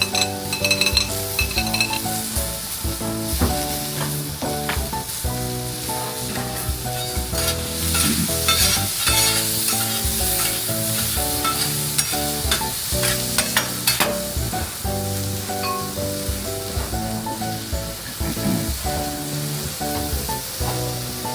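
Food frying and sizzling on a hot pan or griddle, with sharp clicks and scrapes of a utensil stirring it. Background music with a melody plays over it, and the sizzle is loudest and the clicks most frequent in the middle.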